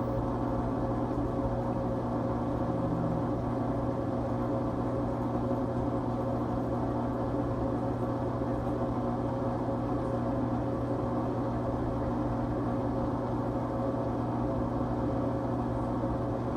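LG Tromm front-loading washing machine running in its quick-wash cycle: a steady, even hum with a low buzz.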